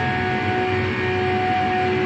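Car engine running at a steady pitch, not revving up or down.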